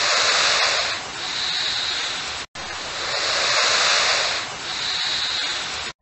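Crocodile hissing: a long, breathy hiss heard twice with a brief break between, each pass loudest at first and then softer, cutting off suddenly near the end.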